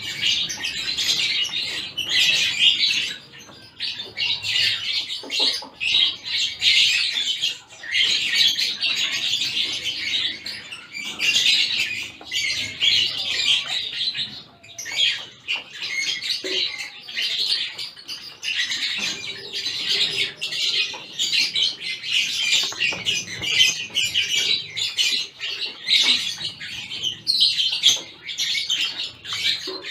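A mixed flock of caged finches, zebra finches and Gouldian finches among them, chirping without pause: many short, high calls overlapping one another.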